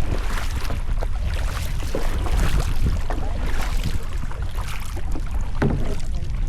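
Wind rumbling on the microphone over irregular water splashes and drips from a sit-on-top kayak being paddled.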